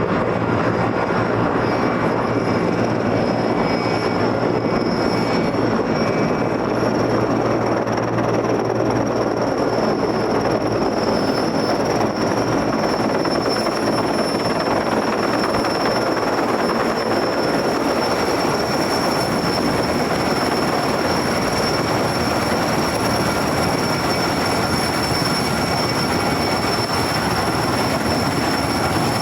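Sikorsky S-64 Skycrane helicopter running, its twin turboshaft engines and rotor giving a loud, steady roar with a high turbine whine throughout. A low rotor tone underneath fades out about halfway through.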